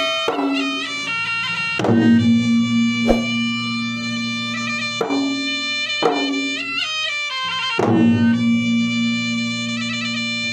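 Traditional Makassar gendang ensemble: a shrill double-reed puik-puik plays a continuous wavering melody with sliding notes over ganrang drums, struck about five times at uneven intervals, each stroke leaving a low ringing hum.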